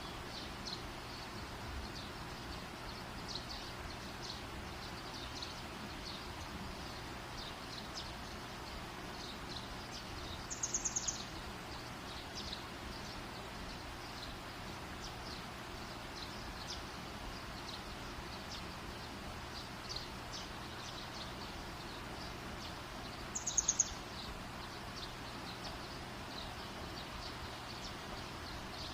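Campfire burning with a steady hiss and faint, scattered small crackles. Twice, about eleven and twenty-four seconds in, a short high chirping trill of rapid pulses stands out as the loudest sound.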